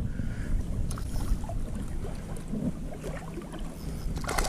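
Shallow water sloshing and lapping, with a steady low rumble of wind buffeting the microphone.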